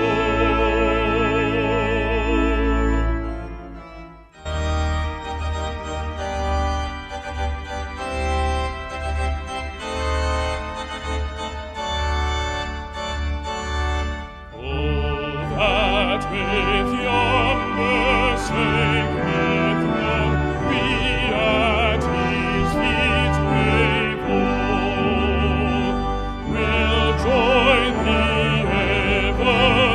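Brass ensemble accompanying a baritone singer in a hymn. The singer holds a note with vibrato that breaks off about four seconds in, the brass plays steady held chords for about ten seconds, and then the singing resumes over the brass.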